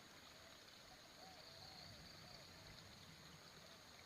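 Near silence: faint outdoor ambience with a steady high hiss and faint short chirping calls repeating irregularly.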